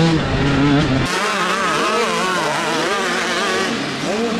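Motocross dirt bike engines revving up and down as riders work the throttle. About a second in the sound changes abruptly to several bikes revving at once, farther off.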